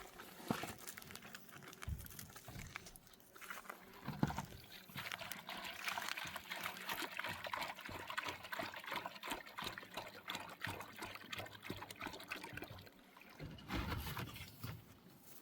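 Water pouring and trickling steadily for several seconds, preceded by a few light knocks in the first few seconds.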